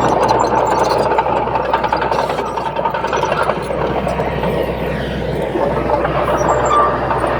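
Bulldozer engine running under load, with a steady high-pitched squeal over the dense machine noise.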